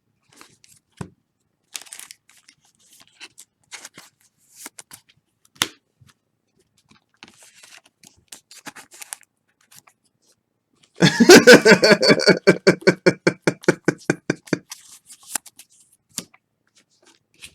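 Trading cards and packaging being handled: soft scattered clicks and rustles, then about eleven seconds in a loud run of rapid rasping strokes, about three and a half seconds long.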